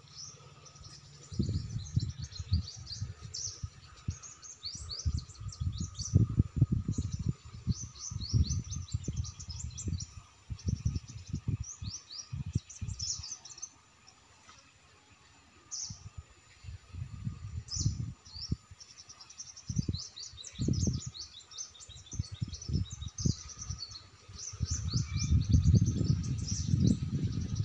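Many small birds chirping and twittering in quick, high, short calls, with loud low rumbling bursts coming and going over them and building up near the end.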